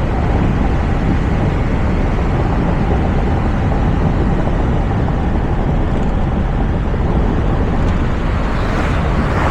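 Toyota RAV4 driving at road speed, heard from a roof-mounted camera: a steady rush of wind and tyre noise. A hiss builds briefly near the end.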